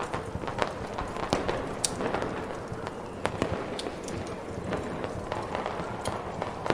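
Fireworks popping and crackling at irregular intervals over a steady rushing snowstorm wind.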